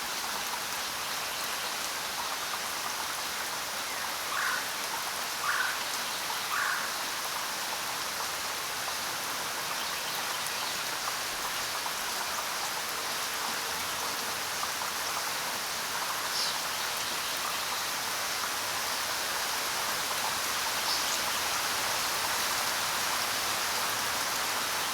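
Steady rain falling on the ground, an even hiss of drops, with a few short faint chirps about four to seven seconds in and two more later.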